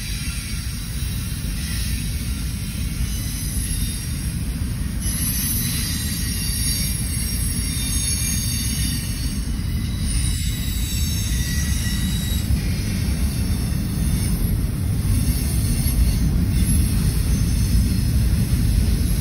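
Union Pacific double-stack intermodal freight train rolling past: a steady low rumble of wheels on the rails, with thin high-pitched wheel squeal running over it, growing slowly louder.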